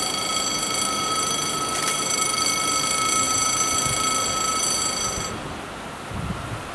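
Passing train rumbling along the track, with a steady high-pitched squeal ringing over it. The squeal's upper overtones cut off about five seconds in, and the rolling noise then fades.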